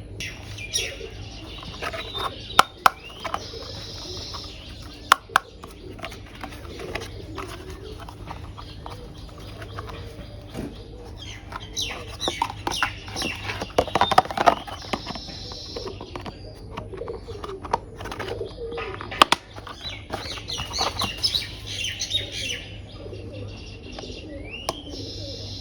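Birds chirping in bouts in the background, with a few sharp clicks of plastic toy parts being handled and fitted together, over a steady low hum.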